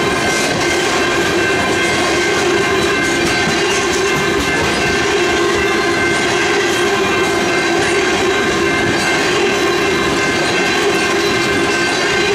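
Ethanol tank cars of a freight train rolling past close by: a steady rumble of steel wheels on the rails with clicking over the rail joints and a steady ringing tone over it.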